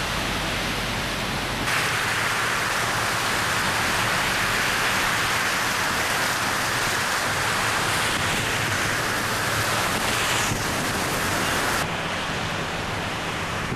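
Heavy rain falling, a steady hiss, with the sound jumping abruptly louder about two seconds in and dropping back near the end, as between separately recorded shots.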